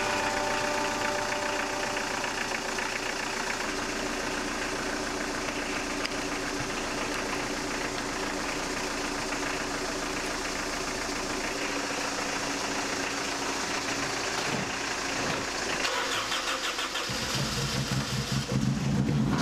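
A stripped Honda CR-V's four-cylinder petrol engine running steadily. About seventeen seconds in it turns deeper and more uneven.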